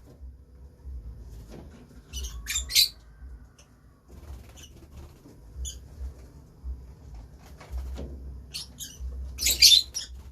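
Pet lovebirds chirping and squawking in short, shrill bursts, with two louder clusters of rapid chirps, one about two and a half seconds in and one near the end, and single chirps between.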